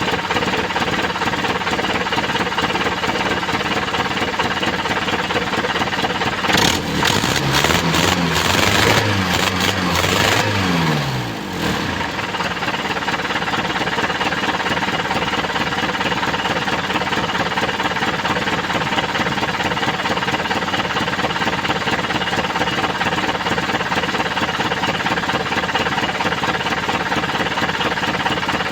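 Mitsubishi Canter's 4D32 four-cylinder diesel engine idling with a steady diesel clatter, now running on rebuilt injectors. About seven seconds in it is revved once, its pitch rising and then falling back to idle by about twelve seconds.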